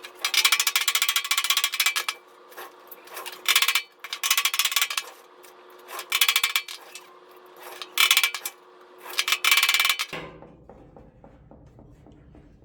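Hammering on the steel body panel of an Austin Healey 100-4 rear shroud: about five bursts of rapid, ringing metal-on-metal blows as the panel is banged back into shape. A steady background hum cuts off about ten seconds in.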